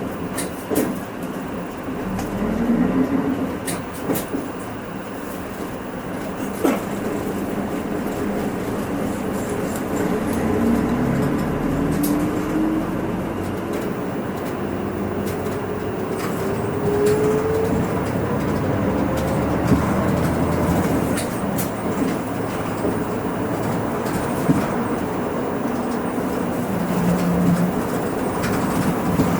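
Hino Rainbow II one-step bus running, heard from inside the cabin: a steady road and tyre rumble, with the engine note rising slowly in pitch for about ten seconds as the bus picks up speed. Scattered sharp clicks and rattles come from the bus's fittings.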